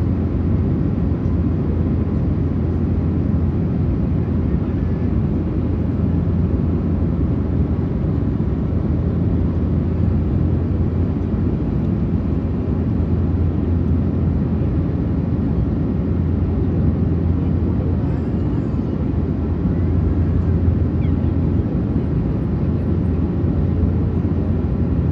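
Steady, even rumble inside the passenger cabin of an Airbus A380-800, from its Rolls-Royce Trent 900 engines and the airflow over the airframe.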